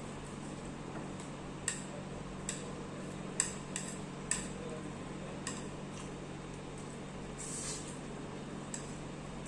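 Eating utensils clinking against a dish about seven times at irregular intervals, with a brief scraping rustle about three-quarters through, over a steady low hum.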